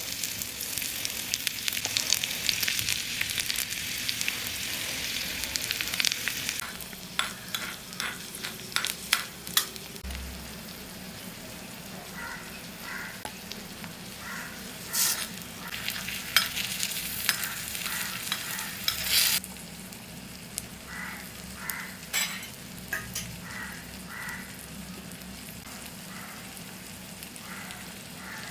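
Food sizzling in oil in a miniature pan, loudest for the first few seconds, with a small spoon scraping and clicking against the pan as it is stirred.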